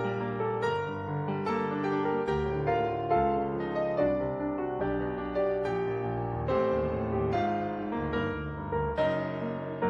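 Solo piano music, a steady run of struck notes and chords, from an old silent-film score.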